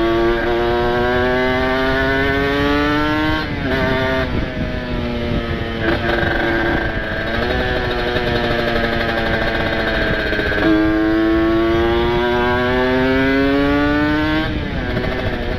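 Kawasaki Ninja RR two-stroke motorcycle engine, ported and run through an open aftermarket exhaust, accelerating through the gears: its pitch climbs steadily and drops back at each shift, several times.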